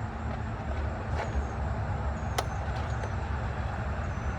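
Steady low rumble of an idling vehicle engine, with a few light clicks and one sharp click about two and a half seconds in; no winch motor runs.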